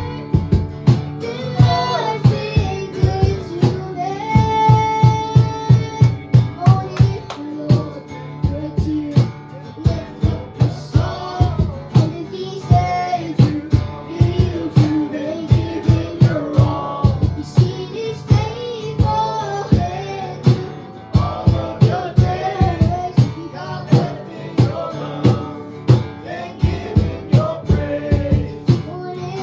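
Live worship music: voices singing a melody over guitar, with a steady drum beat.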